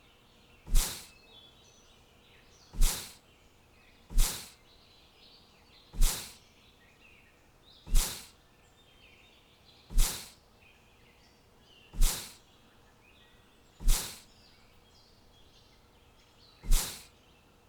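Faint small birds chirping, broken about every two seconds by a loud, sharp hit that dies away within half a second, nine times in all.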